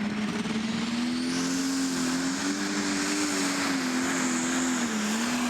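Limited superstock pulling tractor's engine running hard at the start of a pull, its note climbing a little over the first couple of seconds and then holding, with a faint high whistle rising early on.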